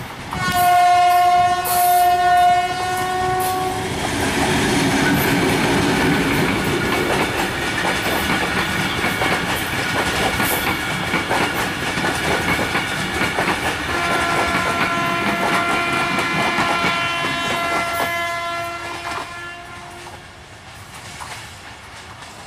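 A diesel locomotive's air horn blows a long, loud chord with a short break in it as the engine approaches. The train then rolls past, its wheels clattering over the rail joints. A train horn sounds again for about five seconds near the end, and the clatter fades as the train draws away.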